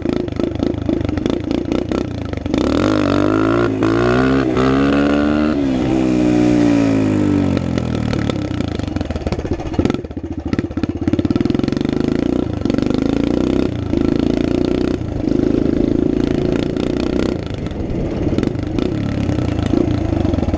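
Dirt bike engine revved and let out in second gear for a wheelie, its pitch climbing for a few seconds and then falling away. The engine then runs on with the throttle eased off and opened again several times.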